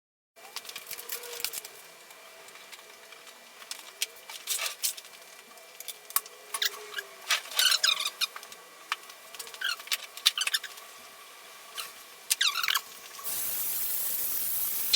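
Scattered clicks and short squeaks over a faint steady hum, then about 13 seconds in a steam cleaner starts blasting steam with a steady hiss.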